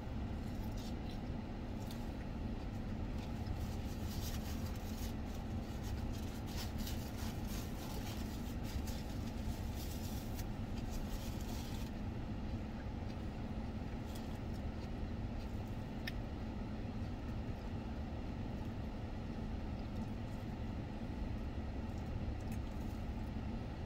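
Steady low hum of an idling vehicle heard from inside the cabin. From about three to twelve seconds in, the crisp crunching of salad lettuce being chewed close to the microphone comes over it.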